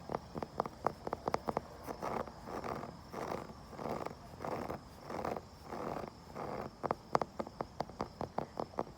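Tapping and scratching on wood: quick light taps, about four or five a second, then a run of slower rasping scratch strokes in the middle, then quick taps again near the end.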